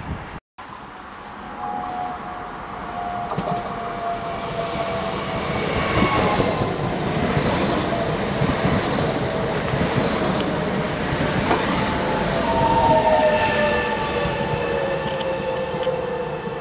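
Trenitalia ETR 425 'Jazz' electric train running past on a curve: a rising rumble of wheels on rail, with wheel squeal as long thin tones that slowly fall in pitch. The sound cuts out for an instant about half a second in.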